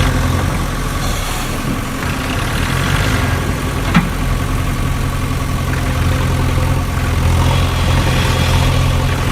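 Engine idling steadily with a low, even hum, and one sharp click about four seconds in.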